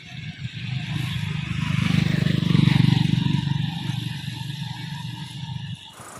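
TVS Apache motorcycle's single-cylinder engine running after a kick start. It revs up to a peak about two and a half seconds in, then drops back toward idle. The sound breaks off abruptly near the end.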